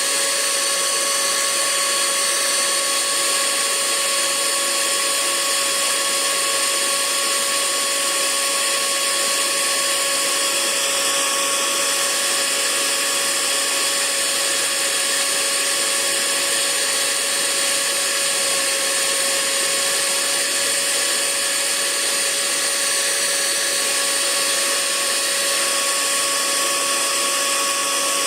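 Hair dryer running steadily: a continuous rush of air with an unchanging motor whine over it.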